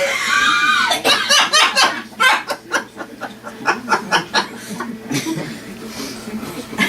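A high, arching shriek, then several seconds of rapid, breathless laughter in quick repeated bursts that trail off toward the end.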